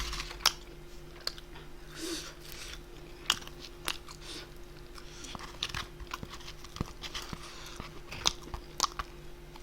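A person chewing and biting food close to the microphone: scattered sharp mouth clicks and short wet smacks, a few at a time, with pauses between.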